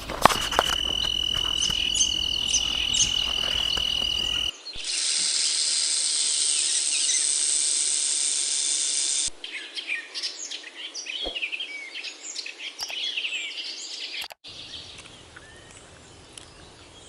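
Insects and birds calling, in sections that change abruptly. First comes a steady high-pitched insect tone over a low rumble. About four and a half seconds in, a dense, buzzing insect chorus takes over. From about nine seconds on, scattered short bird chirps are heard, quieter towards the end.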